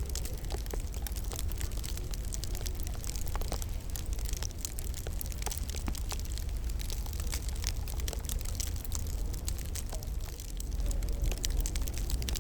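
Wood fire crackling steadily in a fireplace: a dense scatter of sharp pops and snaps over a low rumble of the burning logs.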